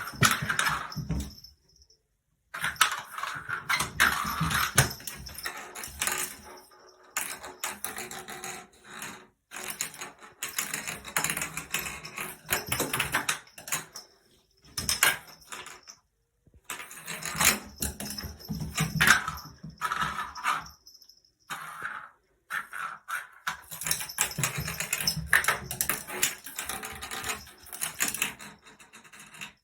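A cat clattering and rattling a small hard object: dense runs of rapid clicks and rattles, broken by a few short gaps.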